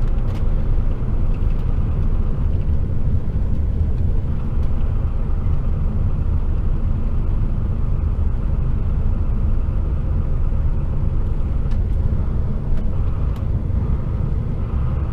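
Steady low rumble of a loaded HGV container truck's diesel engine and road noise, heard from inside the cab while driving.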